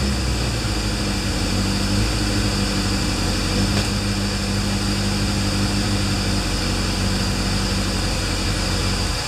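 Kawasaki GPz1100 inline-four motorcycle engine running at a steady low speed, with an even hum and no revving.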